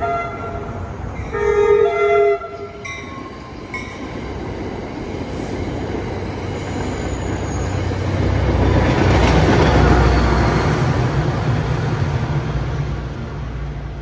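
NJ Transit Bergen County Line passenger train sounding its horn, the last and loudest blast ending a little over two seconds in, then passing over the crossing: the rumble of wheels on rail builds, is loudest about two-thirds of the way through, and fades near the end.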